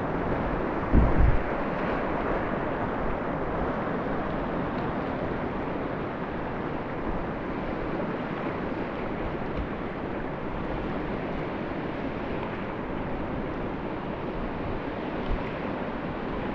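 Steady rush of river rapids, an even wash of whitewater with no pauses. A brief low thump about a second in, with a smaller one near the end.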